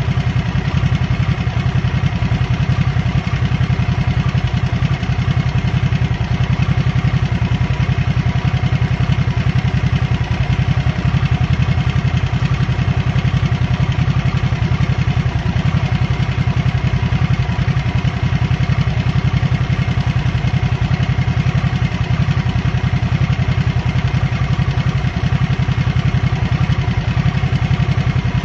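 2023 Harley-Davidson Nightster's liquid-cooled V-twin engine running steadily: a loud, low, even drone with no revving or easing off.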